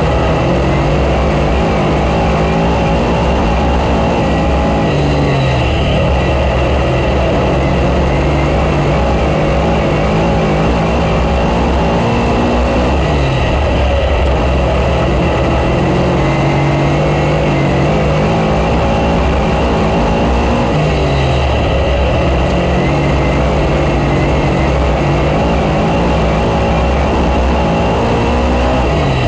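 Dirt-track race car engine running hard around the oval. Its pitch falls as the car lifts for the corners and climbs again on the straights, about every eight seconds.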